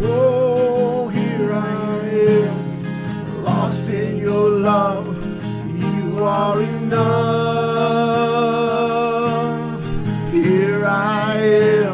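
A gospel worship song: a singer holding long, wavering notes over strummed guitar, with one long held note from about seven to ten seconds in.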